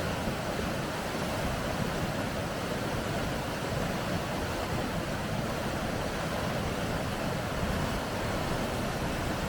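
Rushing water of river rapids, a steady, unbroken noise.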